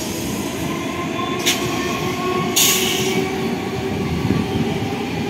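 Suburban EMU local train running past close by: a steady rumble of wheels on rail with a faint whine. A sharp click comes about a second and a half in, and a short hiss near three seconds.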